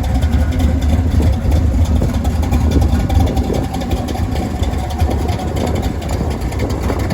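Fully built 383 big-block V8 of a 1966 Plymouth Belvedere idling with a loud, deep, steady rumble.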